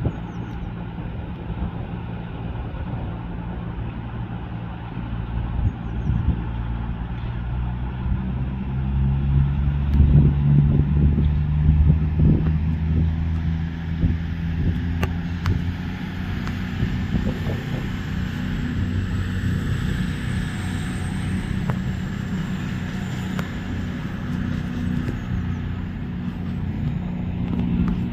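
A train running at the station platform: a steady low hum that swells about nine seconds in, is loudest for a few seconds, then settles back to a steady level.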